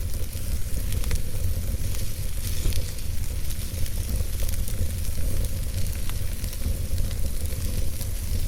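Wood fire burning in a fireplace: a steady hiss over a low rumble, with scattered small crackles and pops.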